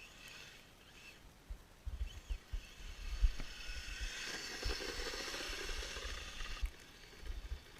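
Kyosho Blizzard FR RC snowcat's electric drive and tracks running through snow, a dense whirring churn that builds about three and a half seconds in and cuts off abruptly a few seconds later, with low thumps throughout.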